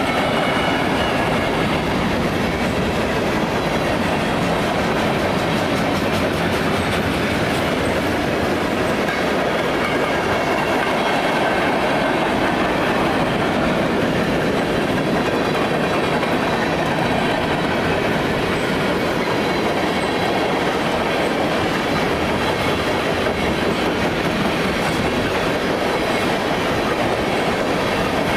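A train rolling past close by: a steady rumble of wheels on rail, with a clickety-clack of wheels over the track and a faint thin squeal of wheels against the rail.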